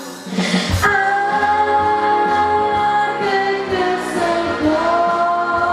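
A child singing a pop song over a backing track, holding long notes above a steady bass line.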